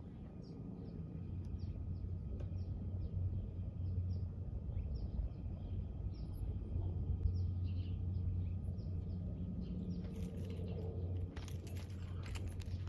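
A bird's short, falling chirps, repeated about twice a second, over a steady low rumble. Near the end, a run of sharp clicks and crunches joins in.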